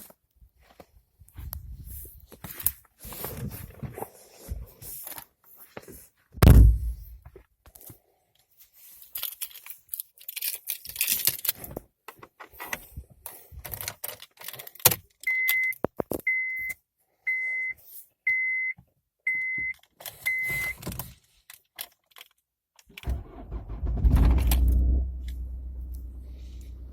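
Keys jangling and handling clicks, a loud thump, and six short electronic beeps about a second apart; then, near the end, the Honda Civic's 1.7 CDTi four-cylinder turbodiesel cranks and catches in a cold start at -12°, flaring up and settling into a steady idle.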